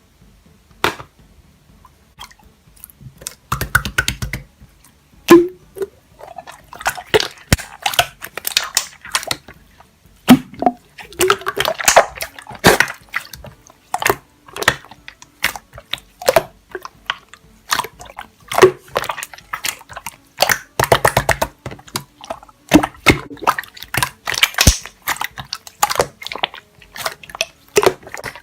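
Slime being squished and pressed by hand, giving irregular wet clicks and pops.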